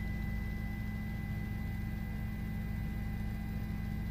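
Steady drone of a news helicopter's engine and rotors, heard from inside the cabin: a constant low hum with no change in pitch or level.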